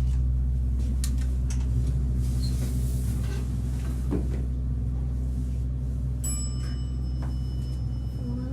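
1983 Baxter & Sons elevator: a steady low machine hum, a few clicks and knocks in the first couple of seconds, and a high ringing tone starting about six seconds in and lasting about two seconds.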